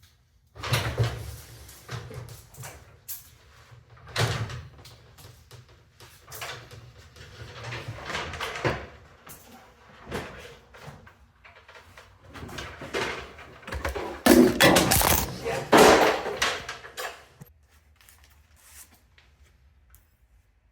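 Junk being hauled around and dropped: irregular knocks, bangs and scraping as objects are handled. The loudest clatter comes about three-quarters of the way through, then it dies away.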